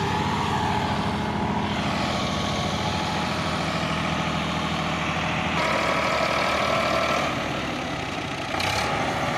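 Diesel tractor engines running steadily under heavy load, pulling a loaded trolley through loose sand. A little over halfway through, the tone changes and higher tones come in for a while.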